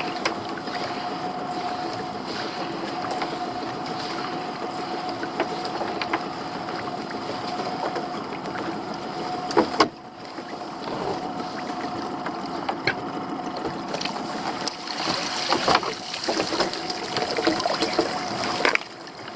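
Small fishing boat's engine running with a steady hum, under knocks and clatter from handling on deck, with one sharp knock about ten seconds in and busier knocking near the end.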